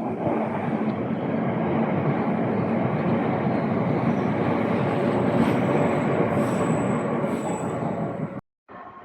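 Train passing close by at speed: a loud, steady rumble of wheels on rail, with a thin high whine from the wheels in the second half. The sound breaks off suddenly near the end and resumes much quieter.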